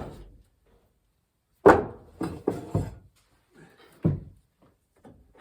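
Knocks and bangs from old electrical wiring being torn out: one loud bang, then three quicker, lighter knocks, and another bang a couple of seconds later.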